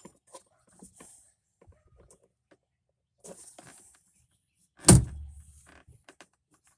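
Small clicks and rustling of things being handled, then one loud, sharp thud about five seconds in, with a short low rumble after it.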